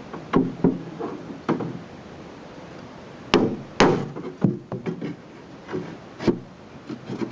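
Hammer tapping on the sheet-metal skin of a VAZ classic car door: about ten separate irregular knocks, the two loudest about three and a half seconds in. The taps knock down high spots left from a dent.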